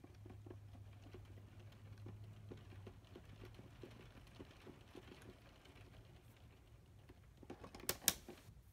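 Plastic LEGO Technic parts being handled and worked by hand, giving faint, irregular small clicks and ticks, with two louder sharp clicks near the end over a faint low hum.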